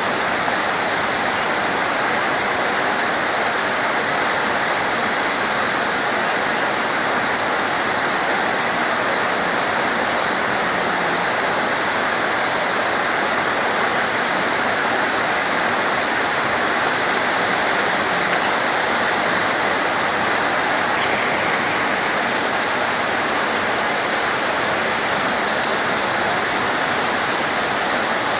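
Heavy rain falling steadily, a dense even hiss with no let-up, broken only by a couple of faint sharp ticks.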